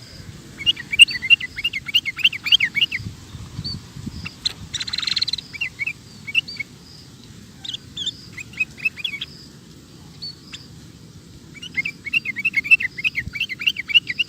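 Sooty-headed bulbul singing in quick runs of short chirpy notes, with scattered single notes between the runs and a brief rustle about five seconds in.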